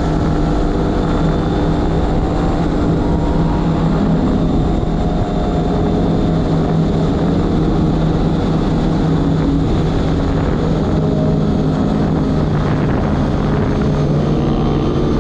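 Pit bike's single-cylinder engine running steadily under throttle, its pitch shifting a little up and down.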